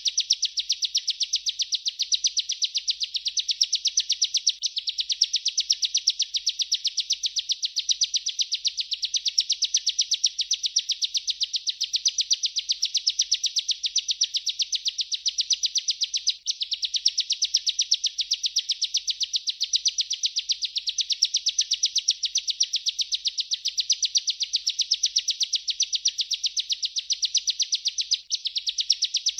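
Bar-winged prinia (ciblek) singing its continuous rolling 'ngerol' song: a rapid, unbroken stream of high, evenly repeated chirping notes at a steady level, breaking off for an instant twice.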